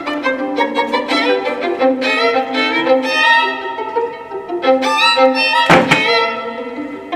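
Violin music playing a quick run of bowed notes. A single sharp thump cuts in about six seconds in.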